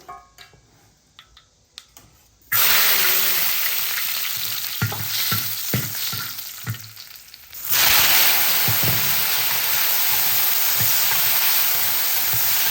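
Food hits hot oil in a wok and bursts into a loud sizzle about two and a half seconds in. It keeps frying while a spatula knocks and scrapes against the pan, and the sizzle surges suddenly louder again about eight seconds in.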